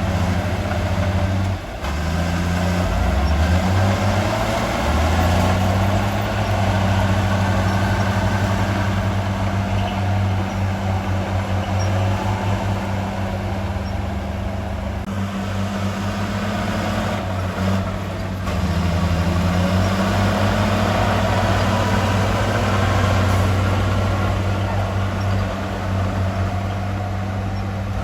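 Heavy diesel engine of construction equipment running steadily, its pitch dipping and rising a couple of times as the revs change.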